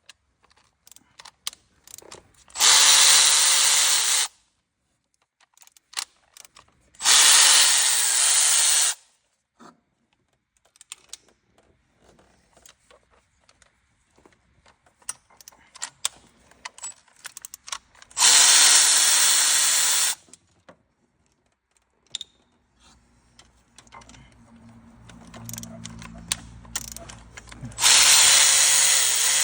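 A handheld power tool run in four short bursts of about one and a half to two seconds each, its pitch dipping as each burst winds down, with small clicks and knocks of hand work between the bursts.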